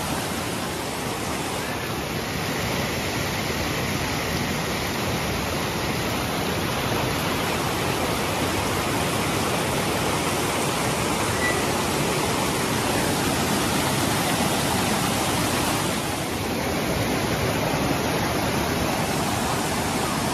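Steady rush of a waterfall: falling water making an even, unbroken hiss.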